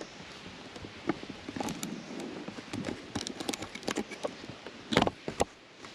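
Rustling and clattering of camping gear and garbage being handled and packed up, with scattered clicks and two sharp knocks about five seconds in.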